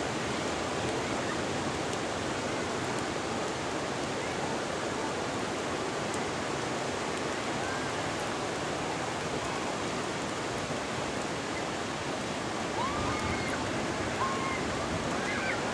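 Ocean surf washing steadily on the shore, a continuous hiss of breaking water with no single crash standing out. A few faint, short, high calls sound through it in the second half.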